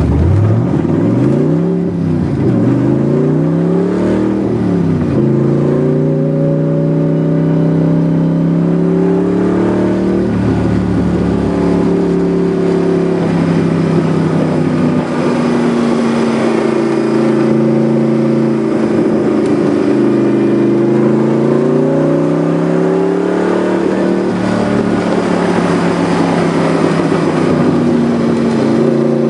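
1973 Datsun 240Z's engine pulling hard under acceleration, heard from inside the car. Its pitch climbs and drops at two upshifts in the first five seconds. It then holds fairly steady revs, with a brief dip near the middle and another near the end.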